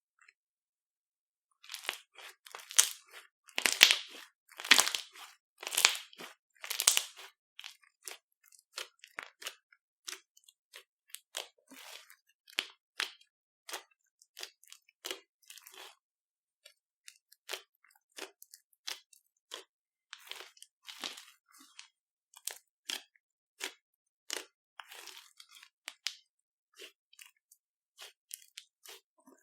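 Slime being kneaded and squeezed by hand, giving a long run of short, sharp crackling pops, loudest for a few seconds near the start and lighter and sparser after.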